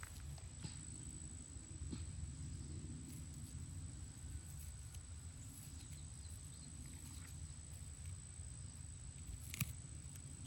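Outdoor ambience: a steady high-pitched insect trill over a low rumble, with a few faint clicks and a sharper click near the end.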